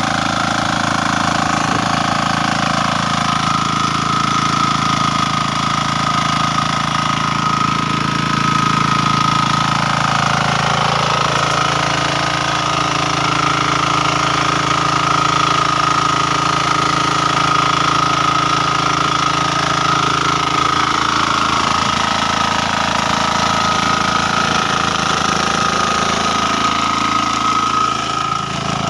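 Small single-cylinder diesel engine of about 7.5 to 9 hp running steadily while driving a rear rotary tiller attachment, with a steady high whine over the engine note. The low engine tone shifts about a third of the way in and again later.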